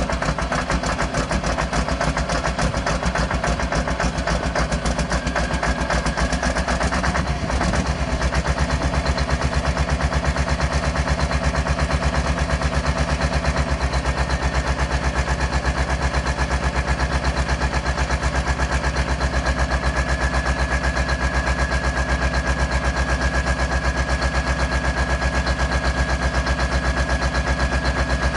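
Large diesel engine idling after a cold start, with a pulsing beat. About seven seconds in there is a brief click, and the beat settles into a steadier, even rhythm. A thin high whine grows over the second half.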